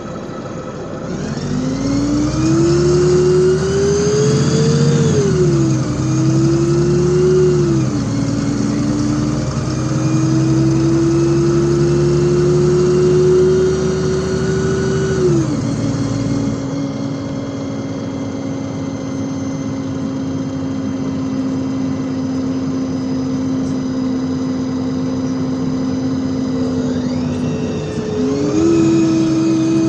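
LiAZ 5292.65 city bus pulling away and accelerating. The engine's pitch rises and drops back at each of three gear changes in the first fifteen seconds, then holds steady while cruising. Near the end there is a brief dip and the engine pulls up again.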